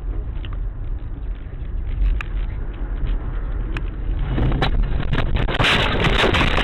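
Car driving with a steady low road and engine rumble heard from inside the cabin, then about four seconds in a loud rush of crunching, scraping and crackling noise from a car crash.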